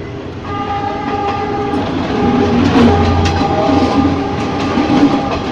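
Ex-JR 203 series electric multiple unit running along the track, a steady whine of several tones over a rumble that grows louder about two seconds in, with a few sharp clicks of the wheels on the rails.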